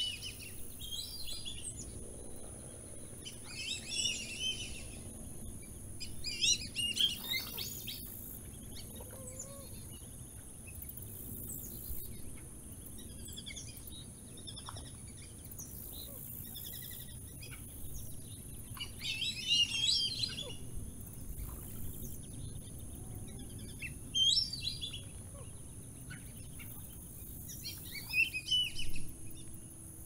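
Wild birds chirping and calling in short clusters of quick high notes every few seconds, over a steady low outdoor background noise.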